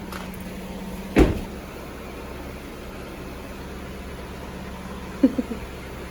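Steady low hum of a vehicle, with one sharp thud about a second in.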